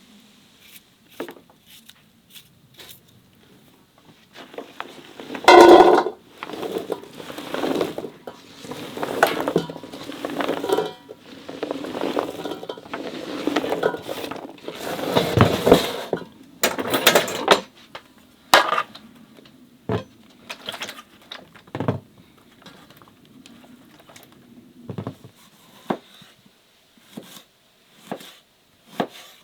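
Kitchen dishes and utensils clinking and clattering as they are handled. One loud clatter comes about five seconds in, then a busy run of knocks and clinks that thins out to scattered single knocks in the second half.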